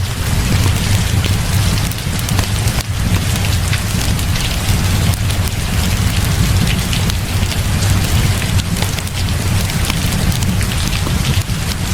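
Heavy rain falling steadily, a dense hiss with a deep low rumble underneath and many fine sharp ticks throughout.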